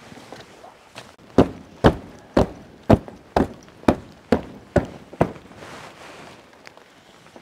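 A run of about nine sharp knocks, evenly spaced at roughly two a second, starting about a second in and stopping after about five seconds.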